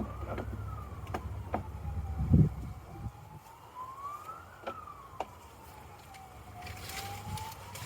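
Emergency vehicle siren wailing, sweeping slowly up and down in pitch about every four seconds. A low rumble over the first few seconds ends in a loud knock, with a few sharp clicks and a short rustle close by.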